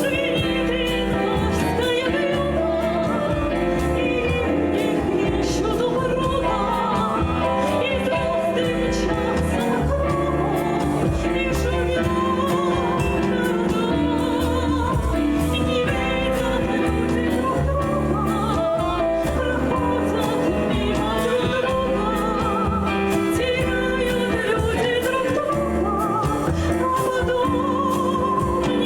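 A ballad sung with vibrato by a solo voice over instrumental accompaniment.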